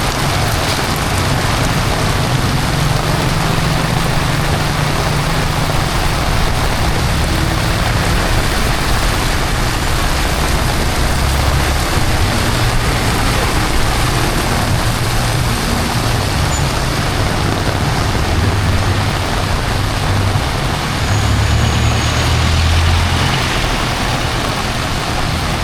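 Heavy rain falling steadily, with the low rumble of passing road traffic swelling and fading underneath.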